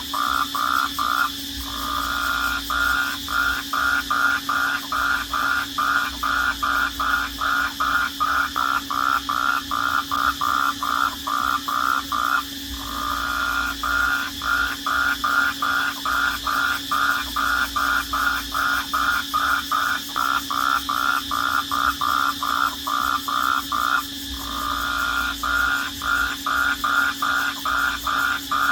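Night chorus of crickets: a steady high trill with a louder pulsing call repeating about two to three times a second. The pulsing breaks off briefly about every eleven seconds.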